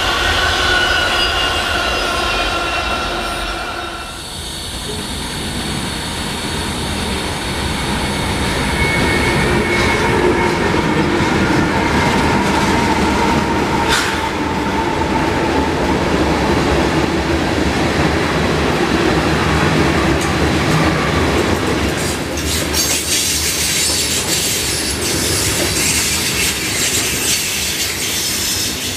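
Railcars rolling past on the track. At first the wheels squeal in steady high tones; after an abrupt change a few seconds in, another train's cars go by with a steady rumble and rattle, a single sharp clank about halfway through and more high squeal near the end.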